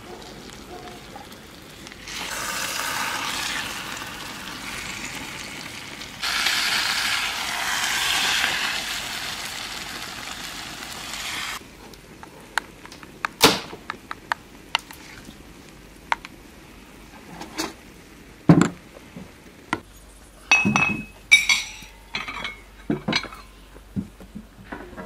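Beaten egg and chopped greens sizzling hard in hot oil in a large shallow iron pan for about ten seconds. After that come a spoon scraping a ceramic bowl and a run of clinks from plates and cutlery being set down.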